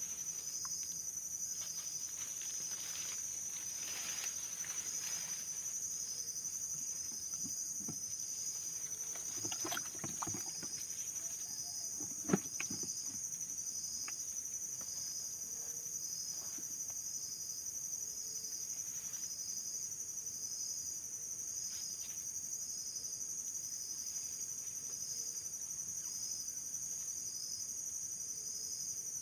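A steady, high-pitched insect chorus with a regular pulse a little faster than once a second, with a few faint knocks and rustles and one sharp click about twelve seconds in.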